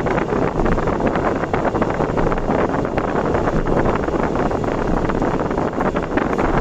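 Steady road and wind noise of a vehicle travelling at speed on an elevated expressway, with wind buffeting the microphone.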